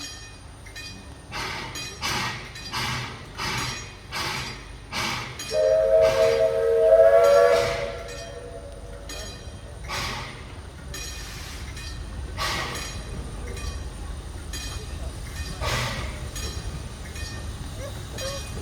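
Puffing Billy narrow-gauge steam locomotive pulling away, its exhaust chuffing in a quick even beat. About five seconds in, a chime steam whistle sounds one loud blast of about two and a half seconds. After the whistle the chuffs come only every few seconds over a steady low rumble.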